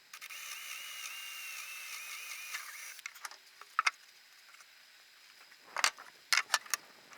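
A power drill runs for about three seconds with a high, slightly wavering whine, pre-drilling nail holes in the wooden box for the hinges. It then stops, followed by scattered clicks and knocks of tools and wood being handled, with a cluster near the end.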